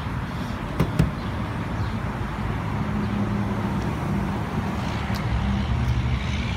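Steady low hum of a running vehicle engine over outdoor background noise, with two sharp clicks close together about a second in.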